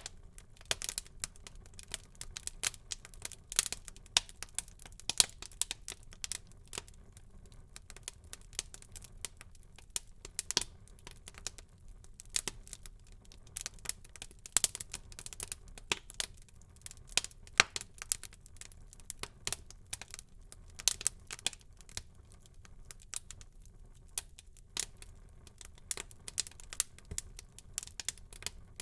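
Wood fire crackling in a fireplace: a steady scatter of irregular sharp pops and snaps over a faint low rumble of the flames.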